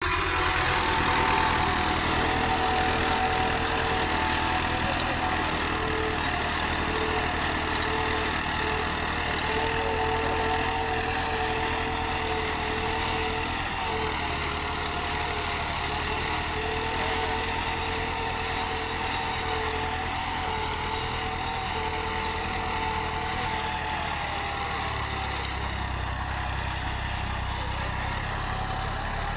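Massey Ferguson 241 Dynatrac tractor's three-cylinder diesel engine running steadily, with a high, steady whine on top that drops out and comes back. About three-quarters of the way through, the low rumble deepens.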